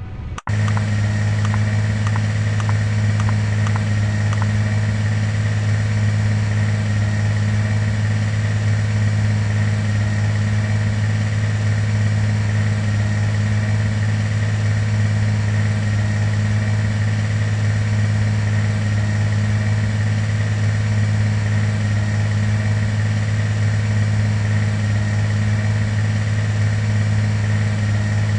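Steady engine drone inside an airliner cabin, a loud even hum with a thin high whine over it. A few faint ticks sound in the first few seconds.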